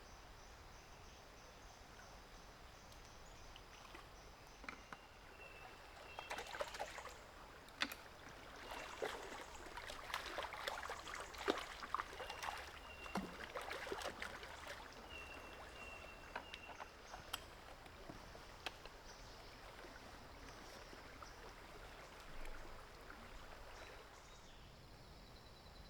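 Quiet forest ambience with a faint steady high hiss and short repeated high chirps. A run of clicks, taps and rustling comes in about six seconds in and fades out about fifteen seconds in.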